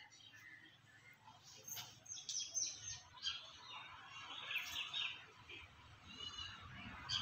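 Birds chirping in short, high calls, with a quick trill near the end.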